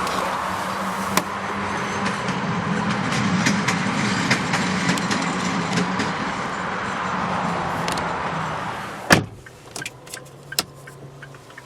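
A car door, a 2011 Kia Carens's, slams shut about nine seconds in with one solid thud, cutting off the steady outside noise that came in through the open door. After it the cabin is much quieter, with a few light clicks.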